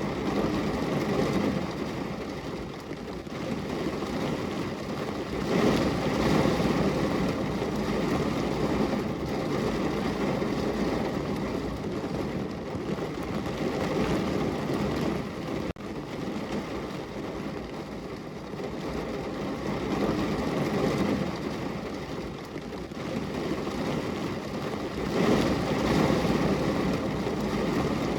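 Heavy rain falling in a steady rushing noise that swells and eases every few seconds, with a momentary dropout about halfway through.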